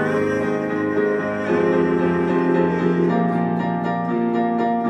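Live instrumental accompaniment between sung lines: sustained chords with a piano-like sound, changing about three times, with a quick, even run of picked or struck notes in the second half.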